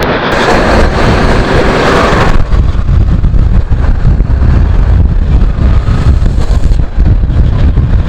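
Wind rushing over the microphone of a moving motorcycle, over a steady low rumble of engine and road. The rushing is louder for the first two seconds or so, then the low rumble dominates.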